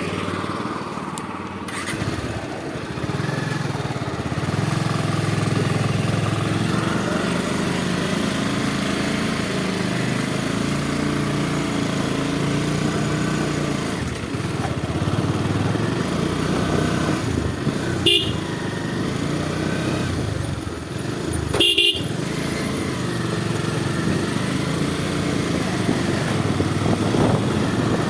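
Bajaj Pulsar single-cylinder motorcycle engine running under way, its pitch rising and falling with the throttle. Two short horn honks come about two-thirds of the way through.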